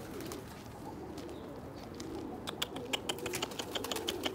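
Domestic pigeons cooing in a loft, with a quick run of sharp clicks and taps over the second half.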